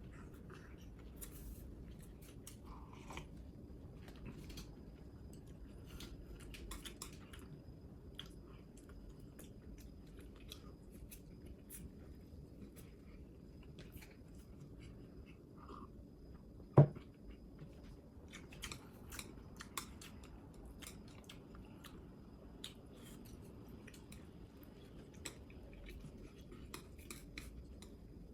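A person chewing food with small, scattered clicks and ticks of utensils and dishes, and one sharp knock about two-thirds of the way through.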